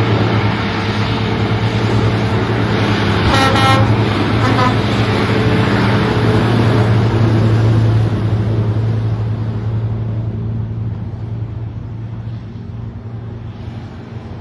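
Heavy truck engine running steadily at a low drone, with a brief horn toot about three to four seconds in. The engine gets gradually quieter over the second half.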